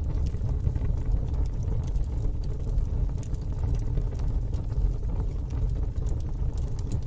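Wood fire burning in a fire pit: scattered sharp crackles and pops, several a second, over a steady low rumble.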